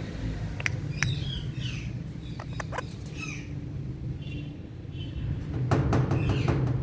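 Indian ringneck parakeet making a few short falling chirps among scattered sharp clicks, over a steady low hum; a quick run of clicks starts near the end.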